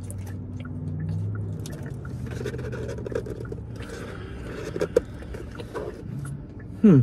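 Chewing fries and handling a cardboard fry box: soft scrapes and small clicks over a low, steady hum inside a car cabin.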